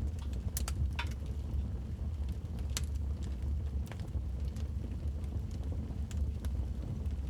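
Wood fire in a fireplace crackling, with sharp pops at irregular intervals, a few a second, over a steady low rumble.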